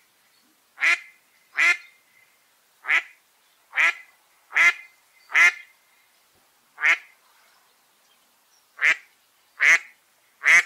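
A duck quacking: about ten single quacks, spaced a little under a second apart, with a pause of about two seconds before the last three.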